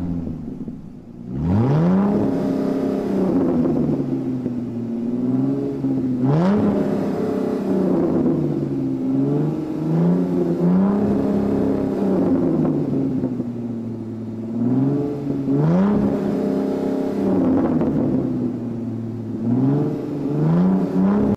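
Lamborghini Huracán's V10 engine being revved again and again. Its pitch climbs and falls back to a lower steady note about half a dozen times.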